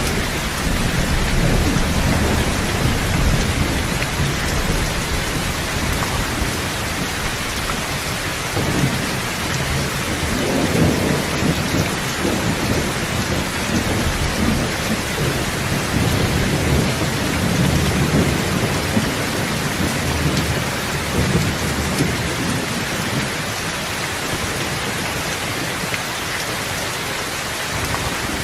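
Steady heavy rain with low rolling thunder that swells and fades underneath it several times, strongest about ten seconds in and again around eighteen seconds.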